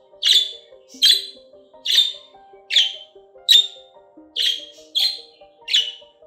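A bird squawking over and over: eight short, harsh calls, about one every three-quarters of a second, with soft background music underneath.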